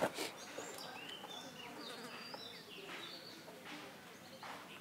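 Quiet outdoor ambience with scattered short, high bird chirps and whistles, and a light knock at the very start.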